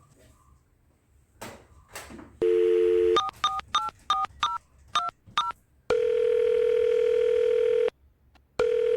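Telephone call being placed: a couple of clicks, then a steady dial tone, then about seven quick keypad tones as a number is dialled, then the ringing tone of the line calling out, one long tone of about two seconds and another starting near the end.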